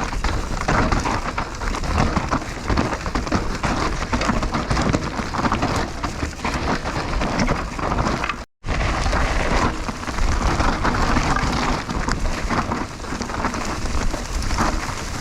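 Mountain bike riding fast down a dirt trail, heard through a GoPro's own microphone: the wind buffets the mic, and the tyres and bike rumble and rattle over the ground. The sound cuts out completely for a moment just past halfway, then goes on.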